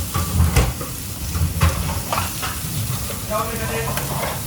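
Food sizzling as it fries in a pan, with a utensil stirring and knocking against the pan several times.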